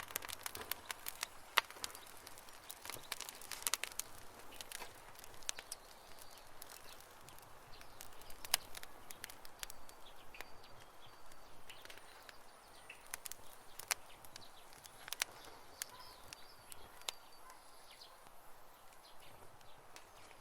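Wood campfire crackling and popping: irregular sharp snaps over a soft hiss, coming thick in the first few seconds and thinning out later.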